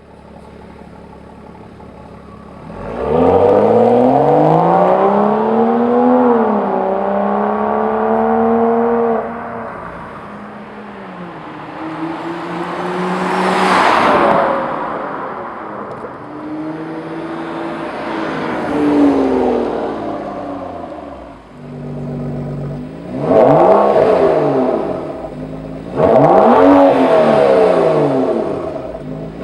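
Exhaust note of a 2013 BMW F30 335i's turbocharged 3.0-litre straight-six through a Borla ATAK stainless steel exhaust. It starts as a low steady note, then climbs sharply about three seconds in and holds high for several seconds. It rises and falls a few more times, with two quick revs near the end.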